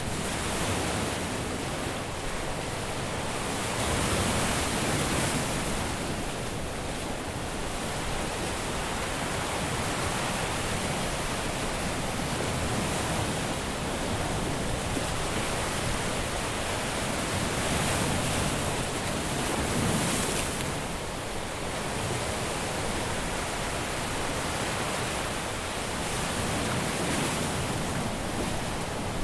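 Caribbean surf washing onto a beach, a continuous hiss of breaking waves that swells a little louder every several seconds.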